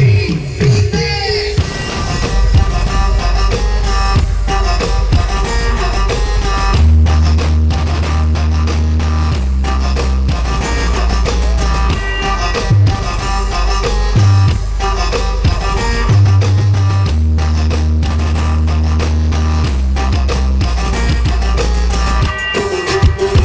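Loud music with heavy, sustained deep bass notes, drums and guitar, played through a large carnival sound system.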